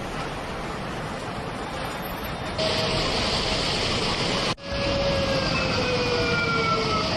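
Floodwater rushing, a steady noise that jumps in level at abrupt cuts about two and a half and four and a half seconds in. After the second cut a pitched tone slowly falls over it.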